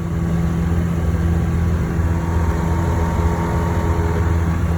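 An engine running steadily at one constant speed, with an even, unchanging hum.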